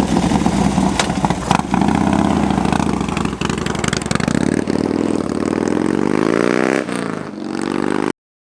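Motorcycle engine running just after starting, then accelerating away with a steadily rising pitch from about four seconds in. It drops briefly near seven seconds, as at a gear change, rises again, and cuts off abruptly just after eight seconds.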